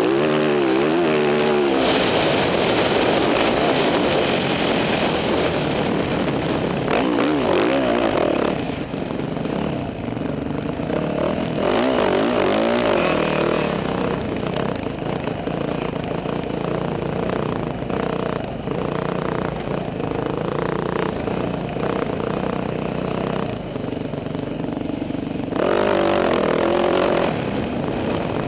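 Dirt bike engine revving, its pitch rising and falling with the throttle. It runs hard for the first several seconds, eases off through the middle, and opens up again briefly near the end.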